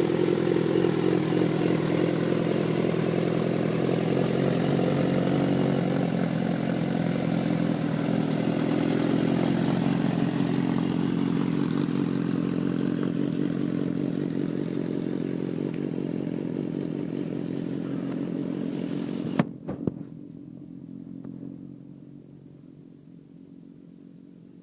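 Suzuki GSX-R motorcycle engine running steadily at low revs as it pulls away gently, slowly fading. About 19 seconds in there are two sharp knocks, then the sound drops off suddenly to a faint low hum that fades.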